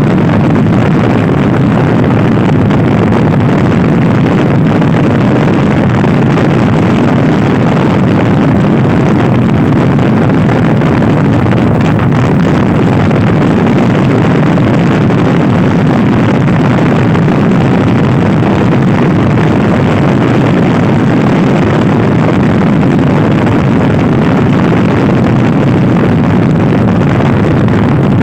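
Loud, steady wind buffeting on the microphone of a Honda Scoopy-i scooter ridden at speed, covering the scooter's engine.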